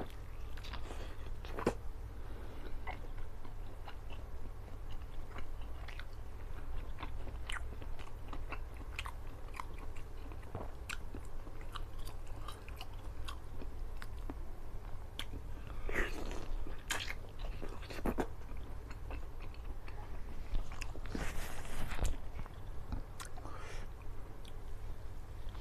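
Close-miked eating of curried whole chicken: a man biting and chewing the meat, with many small wet mouth clicks and smacks and a low steady hum underneath.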